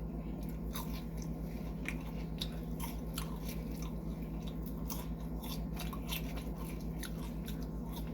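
Close-up chewing and biting of food, a steady run of irregular wet clicks and crunches from the mouth, over a steady low hum.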